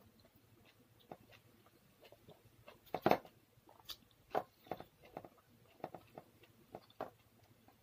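A person chewing food eaten by hand, close to the microphone: an irregular string of short mouth clicks and crackles, loudest about three seconds in.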